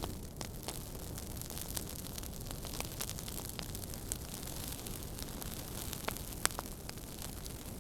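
Wood fire crackling: a steady low rumble and hiss with irregular sharp pops and snaps, the loudest pop about six and a half seconds in.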